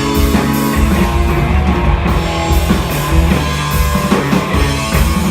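Live rock band playing an instrumental passage: electric guitars, bass and drum kit with a steady beat.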